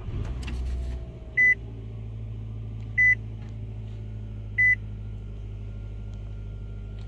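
2015 Nissan Altima 2.5's four-cylinder engine starting and settling into a steady idle, a little high, with no misfire. A dashboard chime beeps three times about a second and a half apart.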